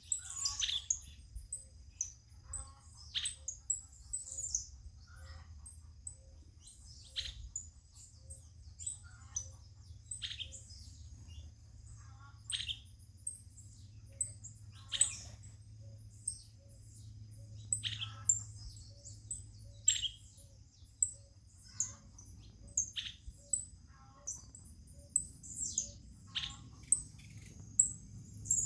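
Birds chirping: short, sharp calls that fall in pitch, repeated every second or two, over a steady high-pitched hum and a low rumble.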